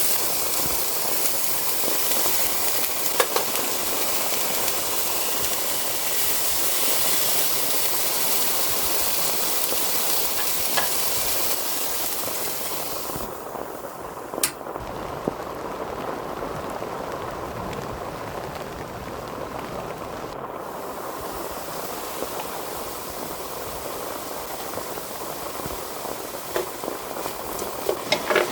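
Heavy rain falling steadily as a dense hiss, with a few faint clicks. The hiss thins and dulls for several seconds about halfway through, then partly returns.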